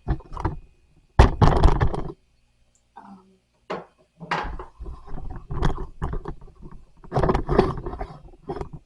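Wooden nightstand parts being handled during disassembly: irregular knocks, clunks and scrapes of panels and hardware. There is a loud burst a second in, a short lull, and then a run of close, uneven knocks and rubs.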